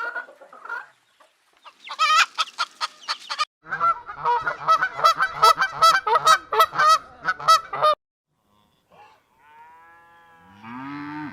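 Geese honking in rapid, repeated calls. Near the end comes a longer, lower call from a larger farm animal, falling in pitch.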